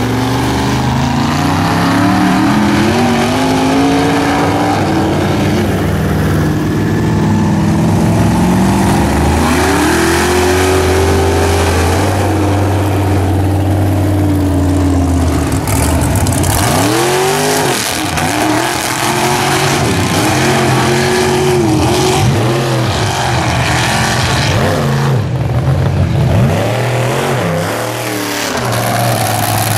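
Modified mud trucks' engines running loudly, several at once. For about the first half the notes climb steadily as the trucks accelerate; after that the engines are revved in repeated quick blips that rise and fall.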